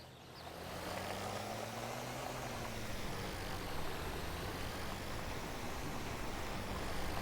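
Steady low hum of a vehicle engine with a soft hiss, as a cartoon sound effect; the pitch rises a little and falls back about two seconds in.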